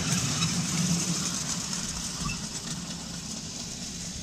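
Miniature railway train rolling past with a steady low hum, its sound fading over the last couple of seconds as the coaches move away.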